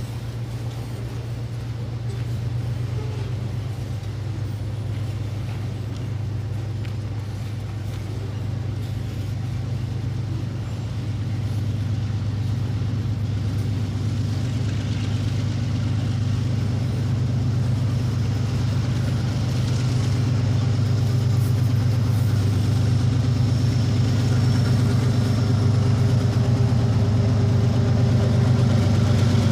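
Diesel locomotive engine running with a steady low hum, growing gradually louder as it approaches.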